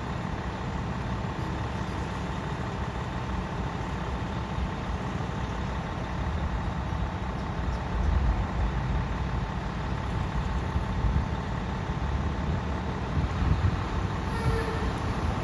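Fire truck engine running with road noise, getting louder about halfway through.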